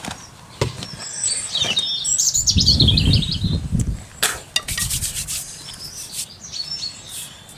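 Garden birds chirping and singing in quick high twittering phrases, over a low rustling rumble about two and a half seconds in and several sharp clicks or knocks.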